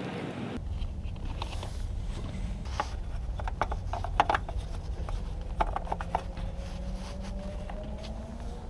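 Fresh motor oil being poured into the engine's filler neck, heard as scattered glugs and clicks. A faint tone rises slowly over the last few seconds as the oil goes in.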